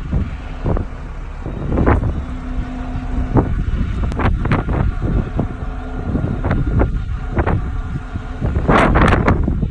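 Bucket truck running with a steady low rumble, with many short knocks and rattles and wind buffeting the microphone.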